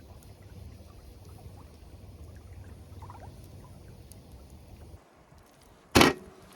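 Steady low outdoor rumble of a riverbank at night, with faint scattered crackles, that cuts off abruptly about five seconds in; about a second later comes a single loud, sharp knock.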